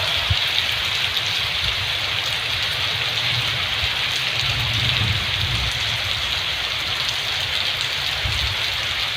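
Heavy rain pouring down in a thunderstorm, a dense steady hiss, with an uneven low rumble underneath.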